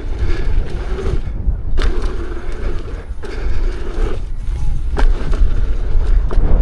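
Electric unicycle riding fast over a dirt trail: heavy wind buffeting and rumble on the rider's microphone, with a sharp knock about two, three and five seconds in as the wheel lands off jumps.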